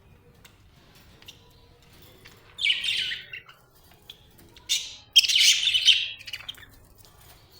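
Budgerigar chirping and chattering in three loud, scratchy bursts: one about two and a half seconds in, a short one near five seconds, and a longer run just after.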